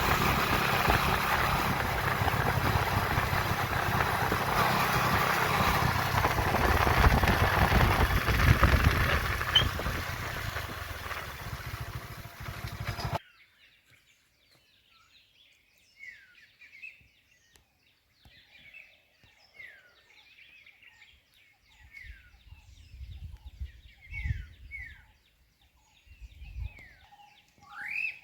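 Loud steady rushing noise that eases off over a few seconds, then cuts off abruptly about 13 seconds in. Quiet birdsong follows: short falling chirps repeated every second or two, with a few low thumps near the end.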